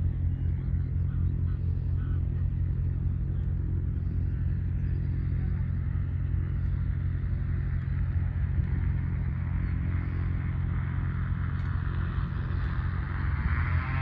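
An engine running steadily with a deep rumble; near the end its pitch starts rising as it speeds up.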